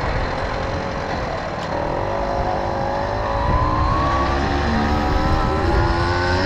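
Tomos Silver Bullet moped's small two-stroke engine running under way, its pitch climbing steadily from about two seconds in as it speeds up, over a low rushing rumble.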